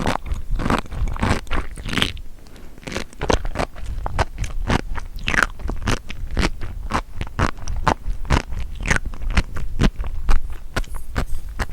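Close-miked chewing of crunchy seafood: many small, quick crunches and pops following one another in an uneven rhythm.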